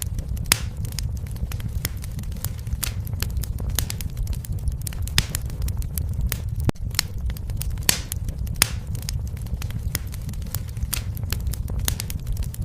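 Wood fire burning in a fireplace: a steady low rumble of the flames with irregular sharp crackles and a few louder pops.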